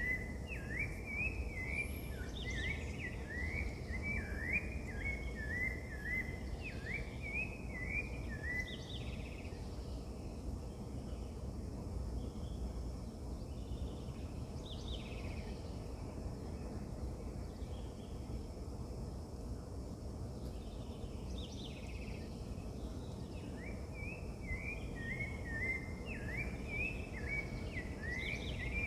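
Birds singing: one bird sings a fast run of short rising and falling notes for the first nine seconds or so and again near the end, with scattered higher chirps in between, over a steady low background noise.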